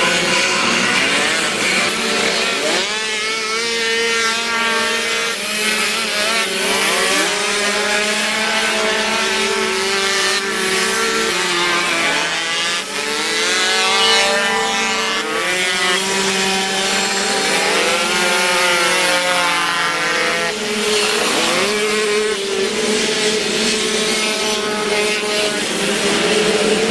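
Several Derbi Variant mopeds' small two-stroke engines racing together on a dirt track, each rising and falling in pitch as the riders throttle up and back off, with the engine notes overlapping throughout.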